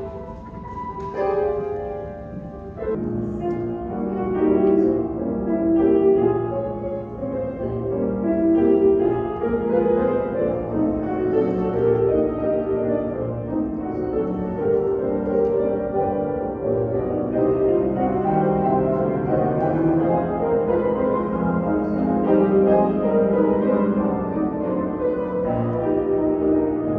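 Piano music, classical in style, playing throughout.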